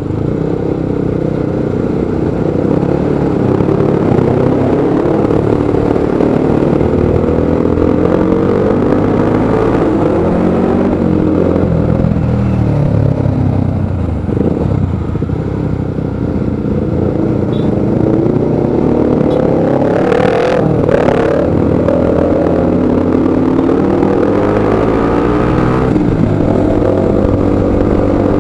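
Motorcycle engine running at low speed, its pitch rising and falling as the throttle opens and closes. There are two short noisy bursts about two-thirds of the way through.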